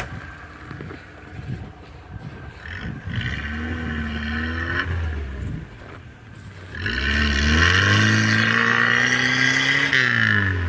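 Lada Niva engine revved hard twice, a short burst about three seconds in and a longer one from about seven seconds, each rising in pitch, holding and falling away, with a higher whine above it. The car is bogged in snow and straining for traction.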